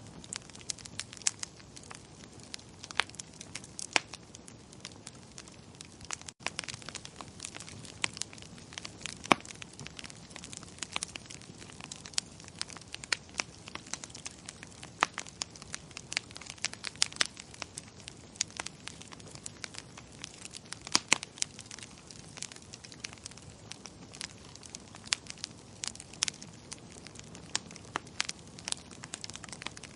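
Wood fire crackling in a fireplace: irregular sharp pops and snaps, several a second, over a low steady rush of flame, with a brief dropout about six seconds in.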